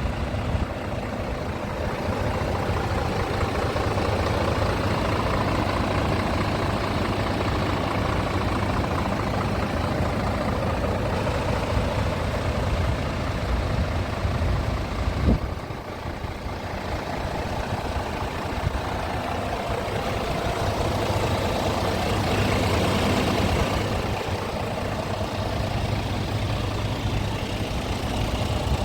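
Scania R450 tractor unit's 13-litre inline-six diesel idling steadily, with a single sharp knock about halfway through.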